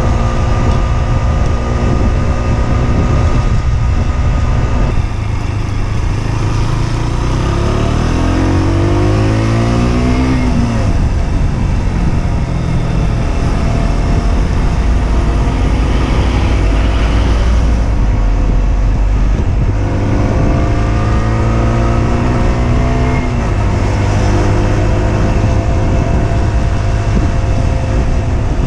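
Husqvarna Svartpilen 125's single-cylinder engine running on the road, with its pitch climbing twice as the bike accelerates, under a heavy rumble of wind and road noise.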